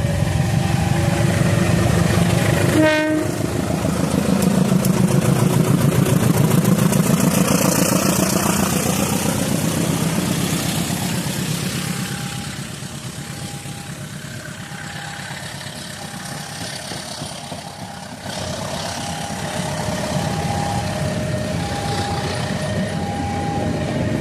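A train passing close by, its wheels clattering rhythmically over the rails, with a short horn toot about three seconds in. A two-tone level-crossing alarm rings steadily throughout.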